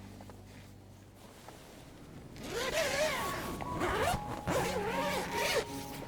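A zipper being pulled in several strokes, starting a couple of seconds in, each stroke a rasping, wavering zip.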